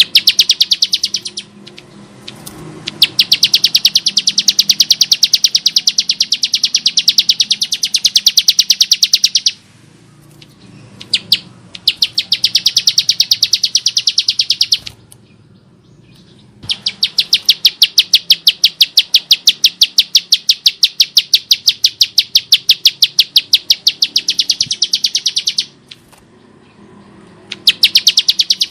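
Bar-winged prinia (ciblek sawah) giving long, rapid rattling trills of harsh, high clicking notes, in about six bouts with short pauses between; the longest runs about nine seconds.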